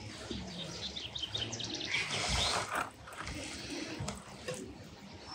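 Small birds chirping in quick, short high notes, with a brief louder rush of noise about two seconds in.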